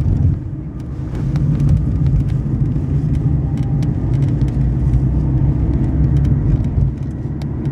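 Renault Fluence on the move, with a steady low road rumble and many short clicks and creaks scattered through it, the creaking that comes from the rear of the car.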